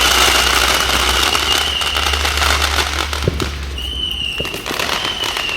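Garden firework crackling densely with a steady high whistle over it; the crackle thins after about three seconds, with one sharp crack, while the whistle goes on.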